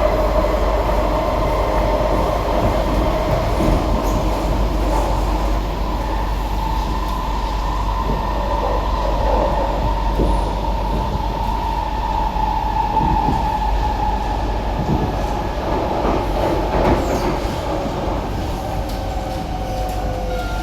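SMRT C151B metro train heard from inside the car while running between stations: steady rail rumble with a continuous high whine, and a few faint clicks over the rail joints. Near the end the whine starts to fall in pitch as the train begins to slow for the next station.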